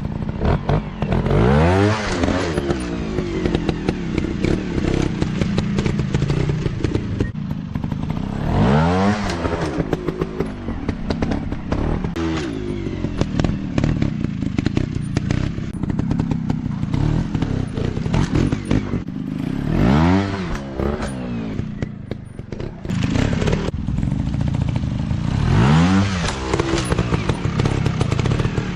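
Off-road dirt bike engines running steadily, revving up and dropping back about four times, with clattering throughout.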